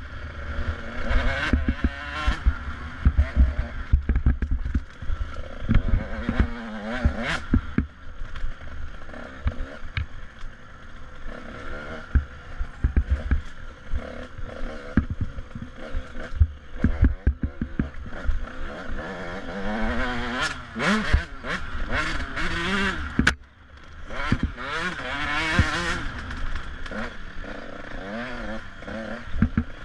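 Enduro dirt bike's engine heard from on board, revving up and down as the rider works the throttle, with knocks and rattles from the bike over the rough track. About three quarters of the way through the engine briefly drops away before picking up again.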